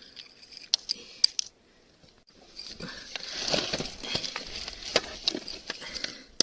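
Hands digging through soil, with rustling and scraping and sharp clinks of glass pieces knocking together; a brief pause comes about a second and a half in.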